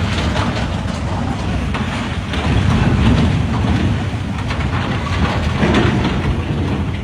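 Strong typhoon wind gusting in surges and buffeting the microphone with a loud, low rumble.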